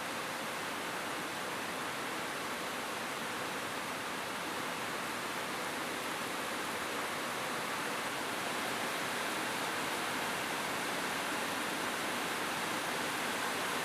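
Steady rain falling on a roof: a dense, even hiss with no single drops or thunder standing out.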